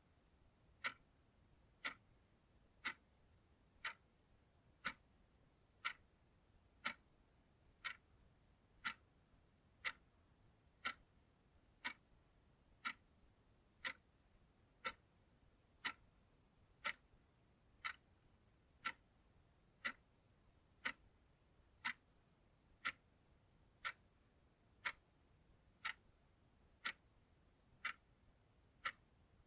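Clock ticking steadily, one sharp tick about every second, over near silence.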